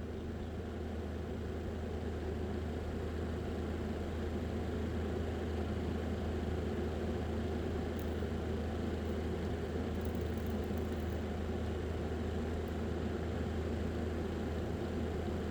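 Small electric fan motor of a homemade mini air-conditioner model running with a steady hum, rising a little at the start and then holding even.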